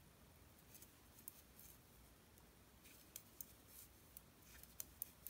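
Faint, irregular clicking of knitting needles as a row of garter stitch is knitted, with the ticks coming more often in the second half.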